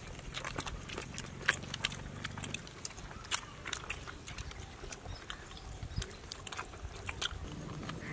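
People biting and chewing pieces of chicken on the bone with their mouths close to the microphone: a scattered run of short crunches and wet clicks.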